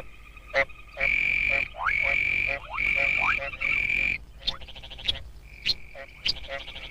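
Breeding chorus of several kinds of frogs calling to find mates. A high trilling call comes four times in a row, each lasting about half a second, among short sharp calls and quick rising notes.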